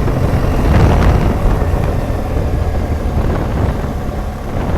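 BMW R1200GSA's flat-twin boxer engine running while the motorcycle rides uphill, heard under heavy, rumbling wind buffeting on the microphone.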